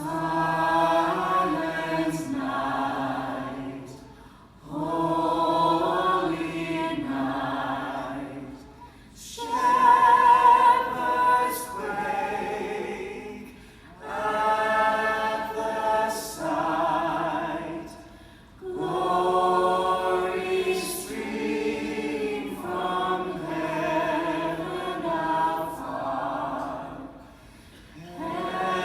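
Choir singing in slow, sustained phrases of about four to five seconds, with brief pauses between them.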